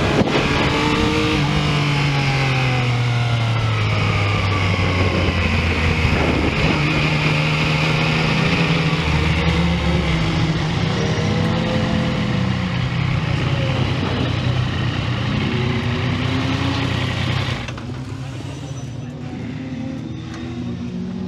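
Yamaha MT-09 SP's three-cylinder engine heard from the bike, slowing down: the revs fall away in several downward sweeps, then run low and steady, under heavy wind rush. A few seconds before the end the wind rush stops and the level drops as the bike rolls along at walking pace.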